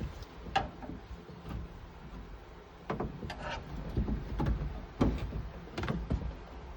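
Irregular clicks and knocks, about half a dozen, from work on a car door's power window mechanism.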